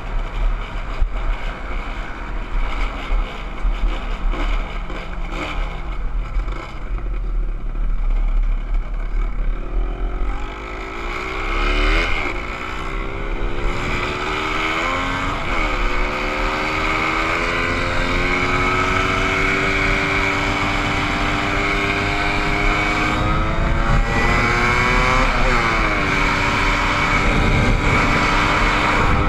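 Motorcycle engine running under way, with wind rushing over the microphone. After about ten seconds the engine note climbs and drops sharply several times, then holds fairly steady toward the end.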